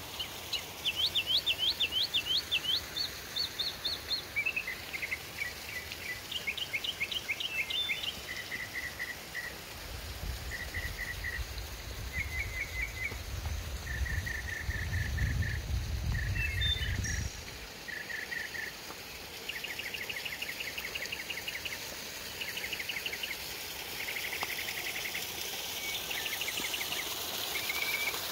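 Small birds singing: series of quick repeated chirps and rapid trills, one after another. A low rumble joins in for several seconds in the middle.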